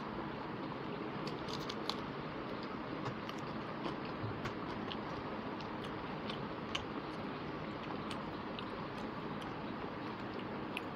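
Close-miked chewing and small mouth clicks of a person eating rice and chicken curry by hand, with scattered soft clicks of fingers working the food on the plate, over a steady background hiss.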